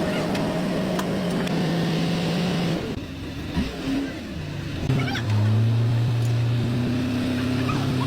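A motor-driven machine running steadily, its pitch dropping to a lower, louder hum about five seconds in.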